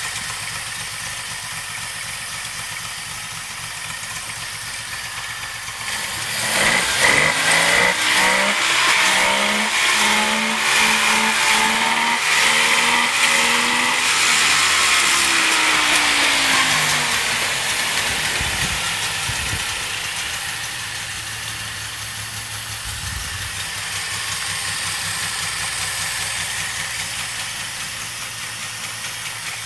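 Suzuki LJ50's two-stroke three-cylinder engine running. About six seconds in it is revved, its pitch rising and falling for around ten seconds, then it settles back to a steady idle.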